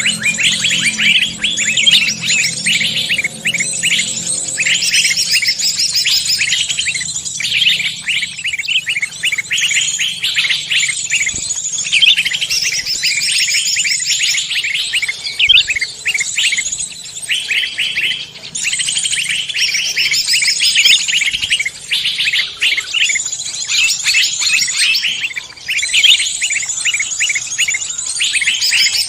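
Forest songbirds chirping and trilling high and fast in a dense, nearly unbroken chorus.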